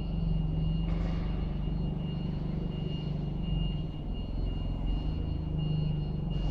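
Clamp forklift truck's engine running steadily, with a thin high whine held throughout and a brief hiss about a second in.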